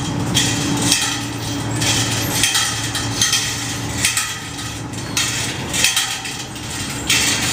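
Repeated metallic clanking and jingling, about once a second, over a steady low hum.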